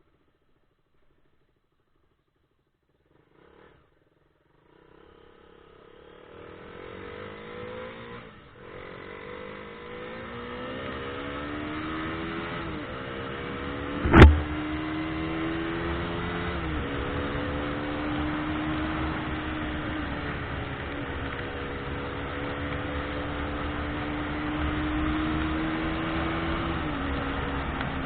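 A car engine heard while driving: after a few seconds of near silence it pulls away and accelerates, its pitch rising and then dropping back at each of several gear changes, over a steady rush of road noise. A single sharp knock comes about halfway through.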